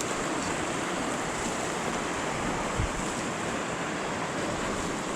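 Small mountain creek running: a steady rush of water, with one brief low thump a little past halfway.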